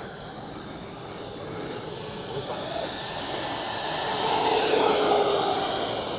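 Electric ducted fan of an FMS BAE Hawk radio-controlled model jet in flight: a high whine over a rush of air that grows louder, peaking about five seconds in as the jet comes closest, then eases off.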